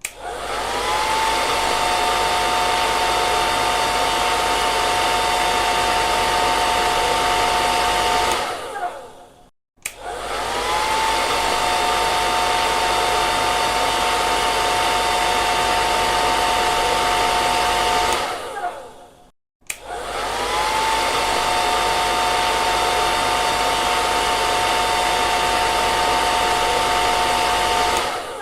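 Hair dryer switched on three times: each time its motor whine rises, then it blows steadily with a high hum for about eight seconds before winding down and cutting out briefly.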